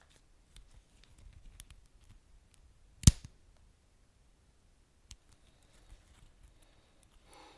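Wood fire crackling: scattered small pops and ticks, with one loud, sharp pop about three seconds in, over a faint low rumble of the burning.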